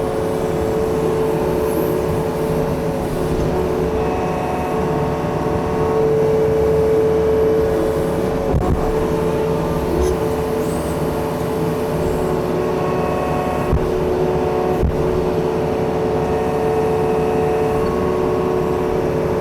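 Yanmar excavator's diesel engine running steadily under working load while it digs at a tree stump, its tone shifting slightly as the load changes, with a few sharp clunks.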